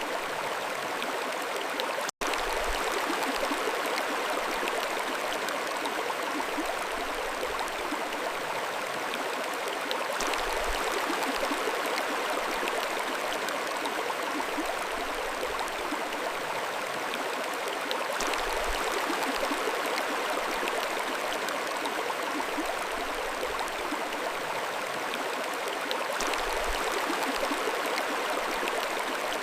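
Mountain stream flowing: a steady rush of water, broken once by a brief dropout to silence about two seconds in.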